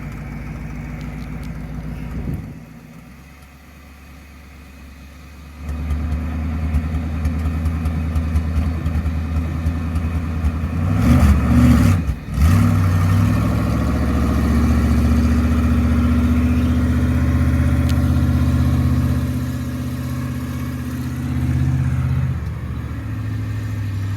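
Engine of a mini S10 monster truck running. It falls quieter for a few seconds, comes back stronger, revs up and down briefly about halfway through, then runs steadily.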